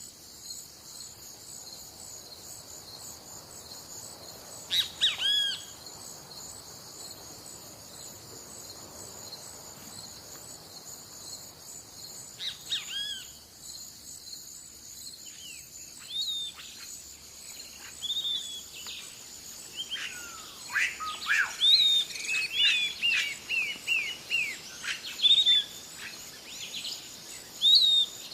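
Wild birds calling in short, arching chirps, a few at first and then many in quick succession through the second half, over a steady high-pitched insect drone.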